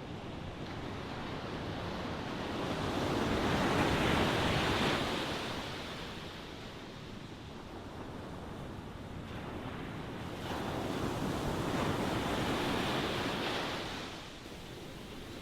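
Ocean waves breaking and washing on the shore, two waves swelling and fading, the first peaking about four seconds in and the second around twelve seconds in.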